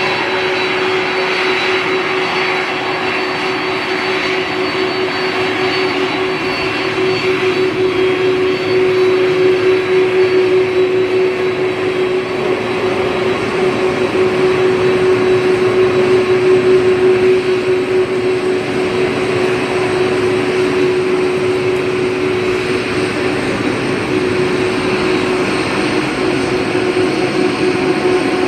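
Jet airliner engines running steadily, with a constant low hum, a thin high whine and a broad rushing noise that swells a little in the middle.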